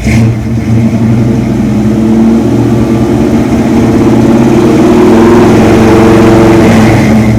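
1973 Ford Bronco's carbureted 5.0-litre V8 running loud and steady, heard from its exhaust, with the engine speed climbing a little a few seconds in.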